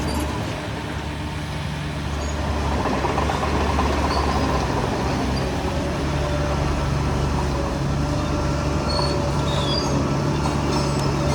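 Shantui crawler bulldozer's diesel engine running steadily, getting louder about two to three seconds in, with a few short high squeaks over it.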